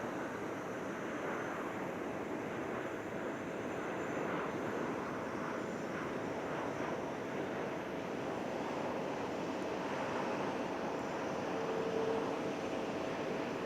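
Twin-engine widebody jet airliner in flight, its engines giving a steady, even jet noise with a faint whine held at one pitch; a second, lower whine comes in about two-thirds of the way through.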